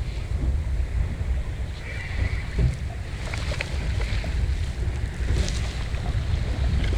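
Wind buffeting the microphone on a small boat: a steady, uneven low rumble with a few faint knocks.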